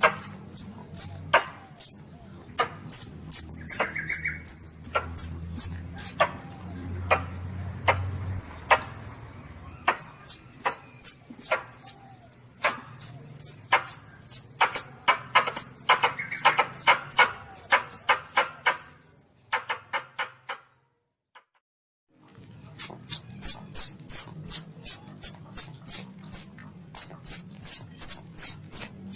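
Baby Asian palm civet (luwak) calling: rapid, short, high-pitched squeaking calls, about three a second, in long runs. The calls break off for about two seconds roughly two-thirds of the way through, then resume.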